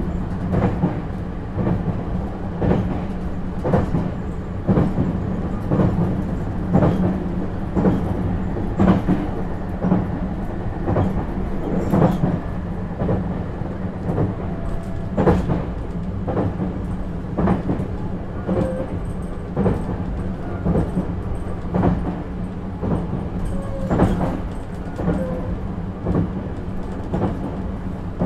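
JR East 651-series electric train running along the line, heard from inside the car: a steady low hum with a clickety-clack of the wheels over rail joints roughly once a second.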